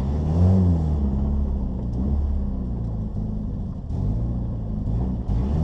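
Turbocharged Volvo B23 four-cylinder engine of a 1980 Volvo 242, heard from inside the cabin while the car is driven hard through an autocross course, its revs rising and falling repeatedly.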